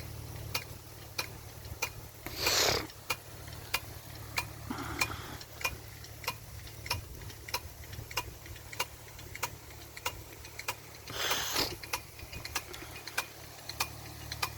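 Irrigation rain gun (impact sprinkler) running: its swinging arm ticks steadily about one and a half times a second, with two louder hissing rushes of spray about nine seconds apart as the jet sweeps past.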